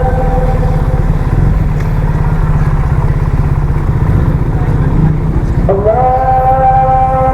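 Motorcycle engine running and wind rumble while riding, with a long held wailing tone over it that fades about two seconds in and comes back with a short rising slide near the end.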